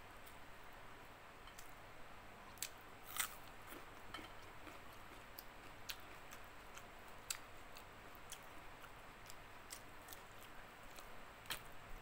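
A person chewing fried bacem fish, with scattered short, sharp mouth clicks and soft sounds of fingers pulling the fish flesh apart, over a faint hiss. The loudest click comes about three seconds in.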